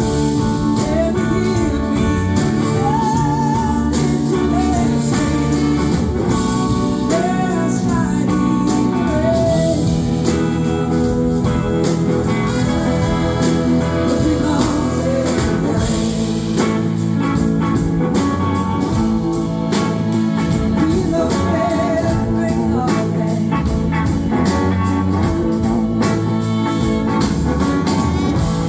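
Live blues-rock band performance, heard through an audience recording: singing with vibrato over electric guitar, bass and drums with cymbals, at a steady loud level.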